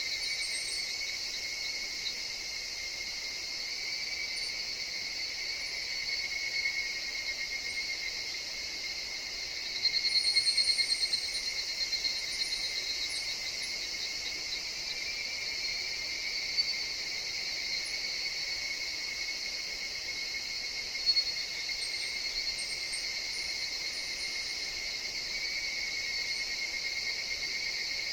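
Steady chorus of singing insects in a forest, a continuous shrill drone, with short higher chirps coming in about ten seconds in, the loudest moment, and again near the end.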